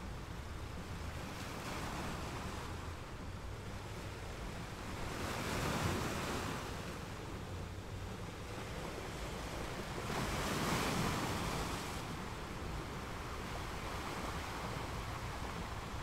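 Ocean surf breaking and washing up the beach, swelling louder twice, about a third and two thirds of the way through, over a low wind rumble on the microphone.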